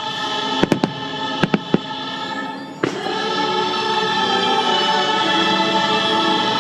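Fireworks show soundtrack with a choir singing, broken by sharp firework bangs: about seven in the first three seconds, some in quick groups. After that the choral music swells and holds.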